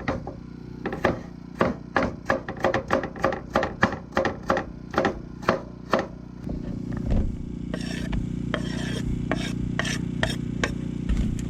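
A Bowie knife chopping vegetables on a board: a quick run of strokes about three a second, then slower, sparser cuts, over a steady low hum.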